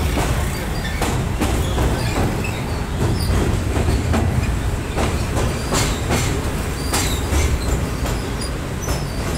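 Passenger train running over a steel truss bridge, heard from the coach: a steady low rumble with irregular sharp clacks of the wheels over rail joints and short high metallic squeaks.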